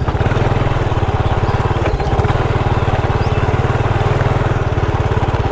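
Small motorbike engine running steadily, low and even, with a rapid regular firing pulse.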